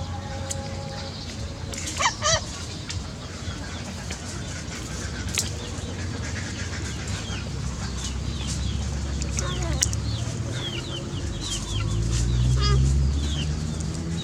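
Animal calls: many short, high chirps, most falling in pitch, over a low steady hum.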